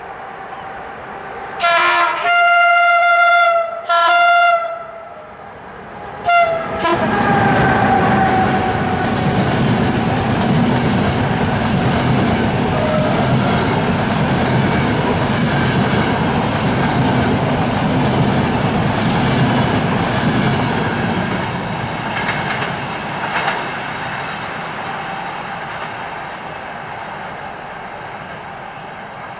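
A CFR class EA electric locomotive sounds its horn in four blasts, the second one long. The train then passes with a loud, steady rumble of wheels on rail that slowly fades away.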